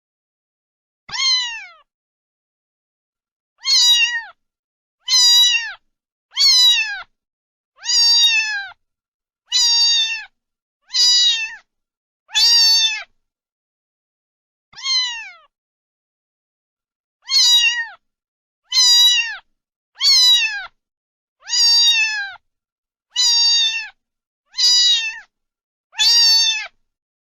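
Domestic cat meowing over and over, about sixteen short meows each falling in pitch at the end, with dead silence between them.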